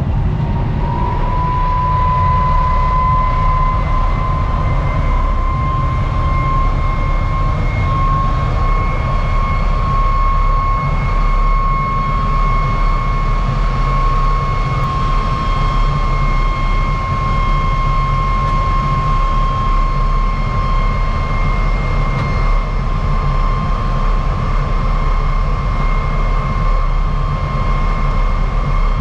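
MiG-17's Klimov VK-1 turbojet running on the ground after start-up: a loud, high whine that rises slightly in the first second or two and then holds steady, over a deep rumble.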